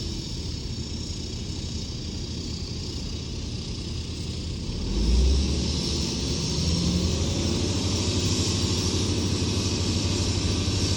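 Heavy diesel earthmoving machinery running with a steady low rumble. There is a short loud low surge about five seconds in, and after it the engine runs louder.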